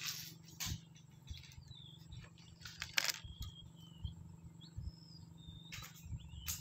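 Small birds chirping faintly now and then, short calls that slide up and down in pitch, over a low steady hum, with a few short clicks and rustles, the sharpest about three seconds in.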